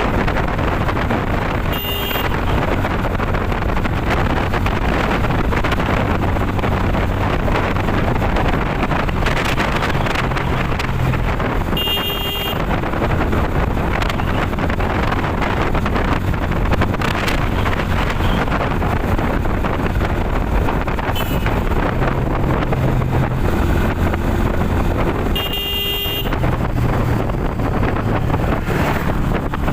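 Motorcycle on the move: steady engine and heavy wind noise on the microphone. Three short horn toots sound roughly ten seconds apart.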